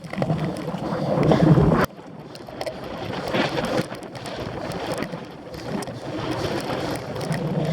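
Wind buffeting the microphone of a camera on a bicycle being raced over rough cyclocross ground, with bike rattle mixed in. It is louder at first, drops suddenly about two seconds in, then rises and falls unevenly.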